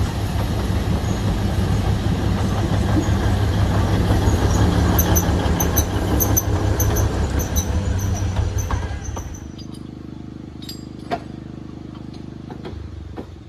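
Alishan Forest Railway train running with a loud rumble and scattered high-pitched wheel squeals, then slowing. About nine seconds in the rumble drops away, leaving the diesel locomotive's steady low idle hum with a few clicks.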